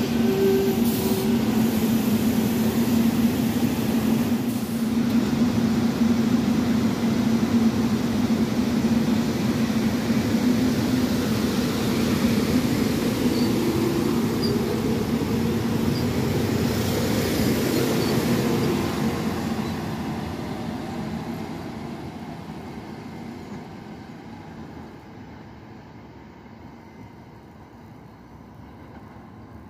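SEPTA electric multiple-unit commuter train rolling past and away: a steady rumble of wheels on rail with a low hum, loud for about twenty seconds, then fading into the distance.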